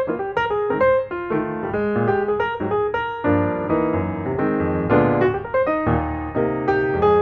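Background piano music: a melody of quick, separately struck notes over chords, with fuller sustained chords in the middle.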